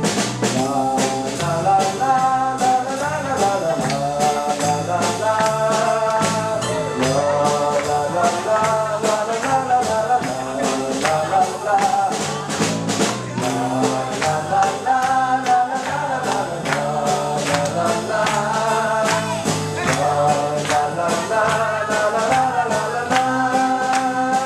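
Live pop song performance: a voice singing a melody over a steady, rhythmic strummed accompaniment.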